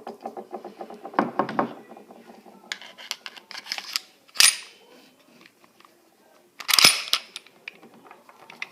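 Metal parts of a Taurus PT 24/7 pistol being handled during reassembly: a sharp click about four and a half seconds in, then a louder metallic clatter near seven seconds.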